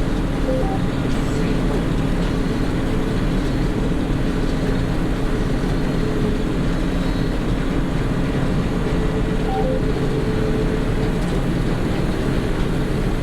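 Combine harvester running steadily while harvesting soybeans: a constant engine and machinery drone with a steady low hum.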